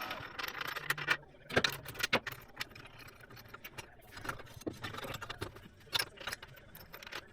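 Irregular clinks, clicks and knocks of metal parts and tools being handled, a few sharper knocks about a second and a half to two seconds in.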